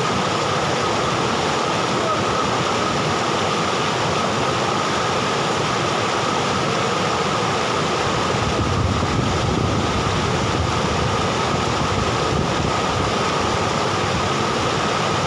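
Steady rushing water, an even wash of noise with no breaks.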